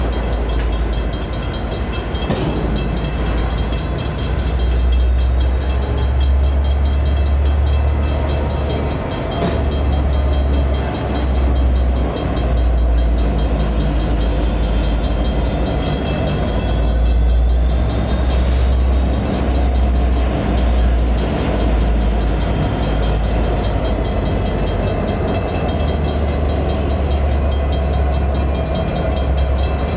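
Freight train with EMD SD59MX diesel locomotives moving slowly through a grade crossing, a steady heavy low rumble of engines and rolling cars.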